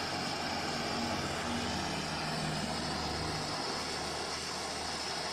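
Gas welding torch flame on copper pipe, a steady hiss.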